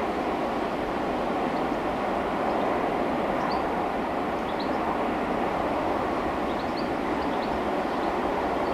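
Train rolling steadily past on the rails, an even rumble of wheels on track at constant loudness, with a few brief high chirps scattered through it.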